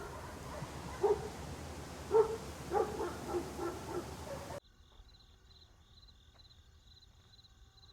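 A series of short, barking animal calls over a steady background hiss. They stop abruptly about four and a half seconds in, and a high-pitched chirp takes over, repeating about twice a second.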